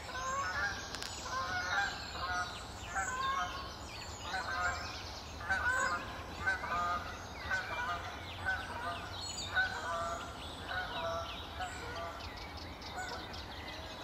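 Birds calling: a run of short, repeated calls, about one or two a second, with small birds chirping and singing higher up.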